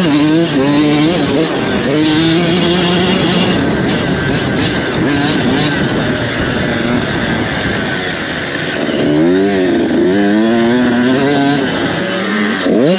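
Motocross dirt bike engines racing, revving up and dropping back again and again as the riders shift and throttle through the track.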